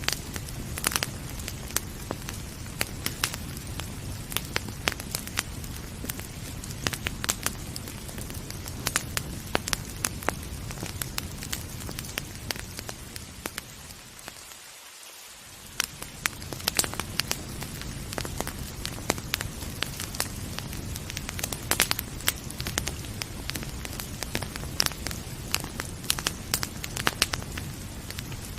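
Wood fire crackling with frequent sharp pops over a steady rain hiss. About halfway through, the whole sound briefly fades, most of all the low rumble, then comes back.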